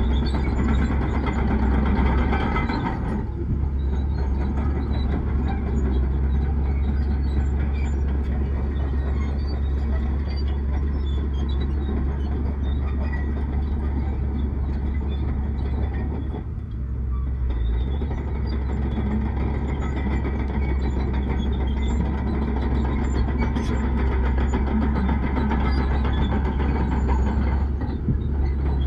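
Heavy diesel earthmoving machinery running steadily, a deep engine drone with a few brief dips in level.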